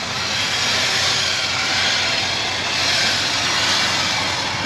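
A vehicle engine running with a steady roar that swells twice, over a low hum.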